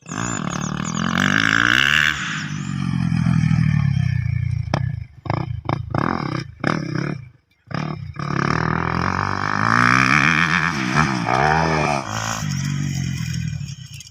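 Kawasaki KX250F motocross bike's single-cylinder four-stroke engine with a Pro Circuit exhaust, being warmed up and revved. It runs loud and steady, then is blipped in short bursts about halfway through, drops almost to nothing for a moment, and picks up again with more revving.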